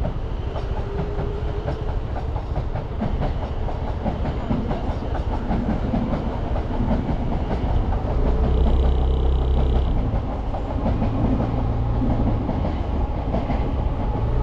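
Motorcycle riding through the city: the engine runs steadily under a dense rattle of road and wind noise, and gets louder about eight seconds in.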